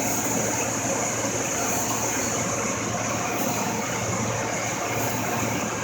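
Pump sanding machine running steadily with a sanding sock over its pad, a continuous hiss with a high whine and a low hum, as a piece is run through it.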